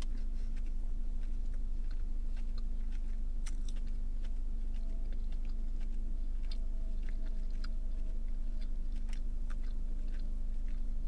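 A person chewing a mouthful of soft, chewy churro close to the microphone, with scattered small mouth clicks throughout.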